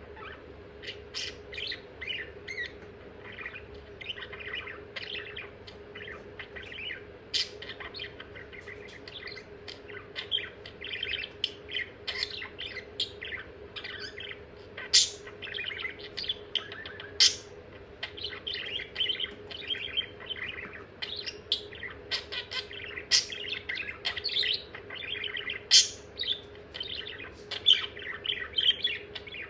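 Budgerigar chattering without a break: a rapid, varied warble of chirps, clicks and chattering, with a few sharp, loud chips scattered through.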